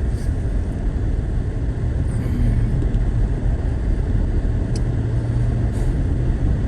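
Steady low drone of a four-wheel-drive vehicle driving slowly through a blizzard, heard from inside the cabin, with an even hiss of wind and road noise over it.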